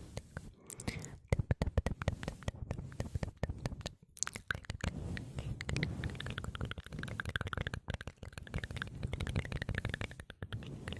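Close-miked ASMR mouth sounds: dense, rapid wet clicks and smacks right at the microphone, with a brief pause about four seconds in.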